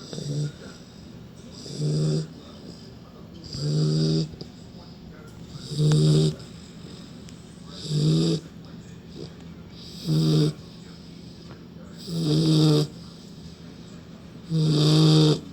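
A sleeping puppy snoring in a steady rhythm: about eight rasping, pitched snores, one every two seconds or so.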